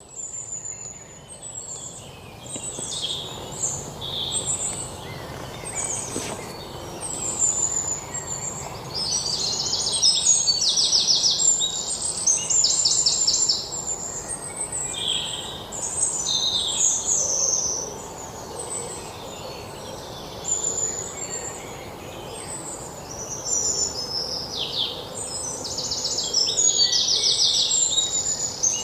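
Birds chirping and singing, with many short high notes and fast rattling trills that come and go, over a faint steady background hum.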